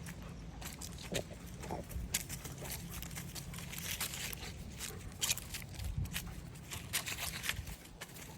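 Irregular crunching and scuffing of footsteps on a walk, over a low rumble.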